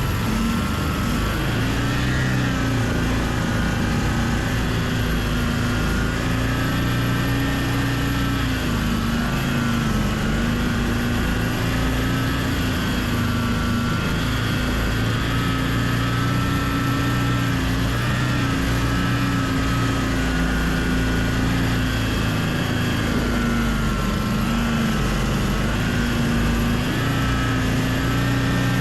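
Homemade snowmobile's Loncin engine running steadily, its speed rising and falling slightly.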